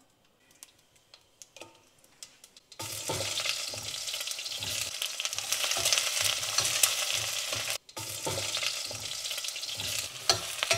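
Hot oil sizzling in a stainless steel pot as sliced onions are stirred into a mustard-seed tempering with a ladle, with dull knocks of the ladle under the hiss. The first few seconds hold only faint ticks; then the sizzle starts suddenly, and it breaks off for an instant a little past the middle.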